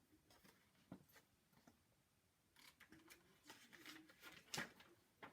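Near silence in a small room, broken by faint rustling and a few light clicks, most of them in the second half, with one sharper click near the end.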